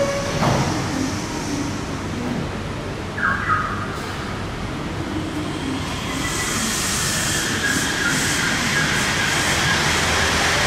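Yurikamome rubber-tyred automated guideway train pulling into the platform behind screen doors. A hiss and a steady high whine swell from about six seconds in as it slows, then cut off suddenly. A platform chime ends just after the start.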